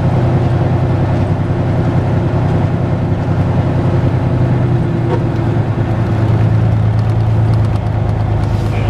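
Semi truck's diesel engine running steadily from inside the cab while moving slowly; its hum drops slightly in pitch about halfway through.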